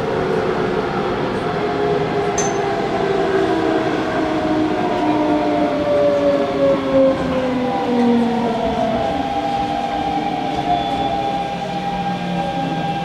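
Hanshin local electric train running on the line, its traction motors whining in several tones over the wheel and rail noise; about halfway through the tones glide down in pitch as the train slows for the next station. A single sharp click sounds a couple of seconds in.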